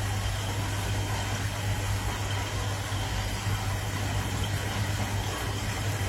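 An engine running steadily: a low hum under a constant hiss.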